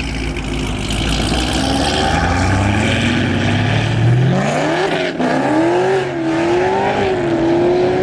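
Car engine at low revs, then accelerating hard about four seconds in: the engine note climbs steeply, drops briefly near the five-second mark as the driver shifts up, then climbs again and holds high.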